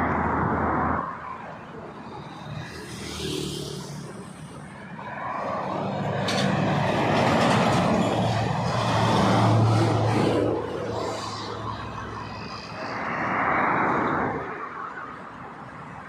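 Heavy road vehicles passing close by, diesel engine running under the rush of tyres on the road. The sound builds to its loudest about ten seconds in, and another vehicle passes near the end.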